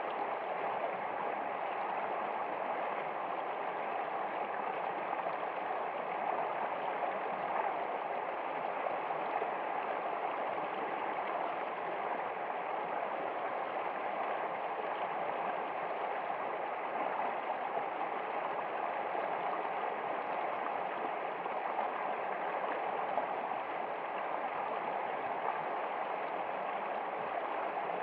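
Steady running water, a stream babbling and gurgling without a break.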